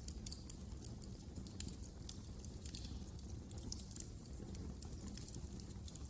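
Wood fire in a fireplace crackling, with frequent small sharp pops at irregular intervals over a steady low rumble of the flames.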